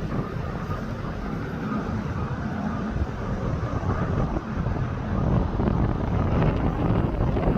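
Low, steady rumble of the Keewatin Railway train arriving, with wind buffeting the microphone.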